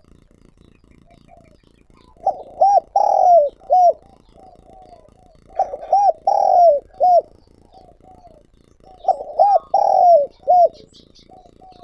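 Spotted dove's calling song: three loud cooing phrases of a few notes each, about three and a half seconds apart, with softer cooing in between.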